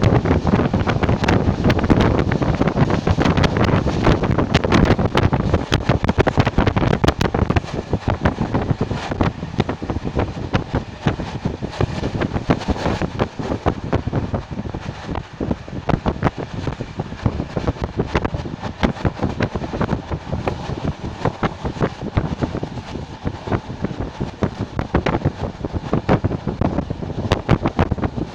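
Passenger train running on the track, with many sharp clicks amid heavy wind buffeting on the microphone. The noise is loudest for the first several seconds, then eases off.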